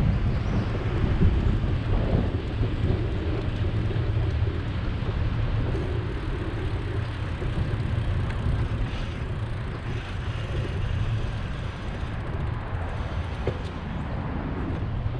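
Steady low rumble of wind on the microphone and road noise from a bicycle being ridden, with no clear single event standing out.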